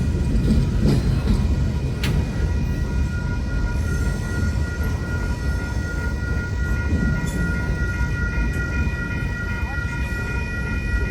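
Train passing with a steady low rumble; from about two seconds in, several steady high tones ring together over it and hold.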